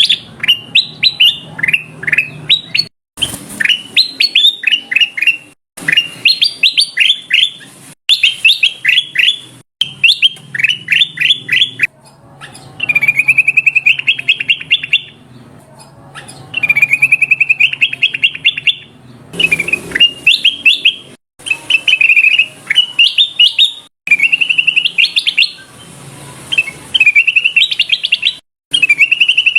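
Kutilang emas bulbul calling in repeated phrases of quick, loud chirping notes, each phrase about two seconds long with short breaks between, some drawn out into longer rolling trills. This is a recorded lure call.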